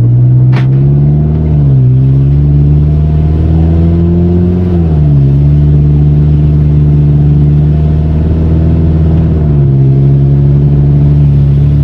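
Chevrolet Captiva Sport engine accelerating hard. Its pitch climbs and then drops at three gear changes, about 1.5, 5 and 9.5 seconds in. The exhaust is unbolted at the catalytic converter, letting a clogged exhaust breathe, and the vehicle now pulls strongly.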